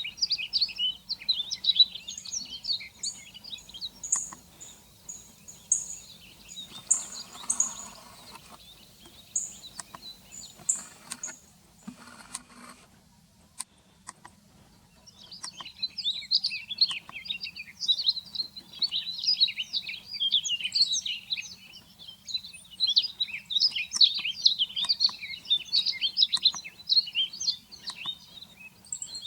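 Small birds calling: a dense twittering of many chirps, then a series of thin, high single notes spaced about half a second apart. A short noisy stretch and a brief lull follow, and the dense twittering resumes about 15 seconds in and carries on.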